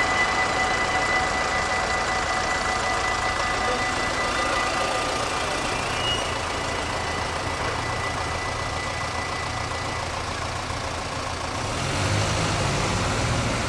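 Road vehicle engines running at a railway level crossing, a low steady hum that grows louder about twelve seconds in as traffic moves off.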